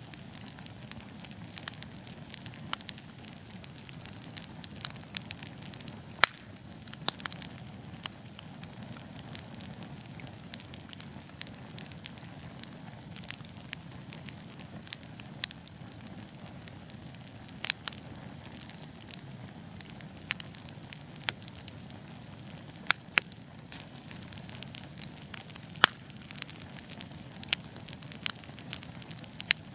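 Wood fire burning in a fireplace: a steady low hiss of flames with sharp irregular pops and crackles from the burning logs, a few louder snaps scattered through.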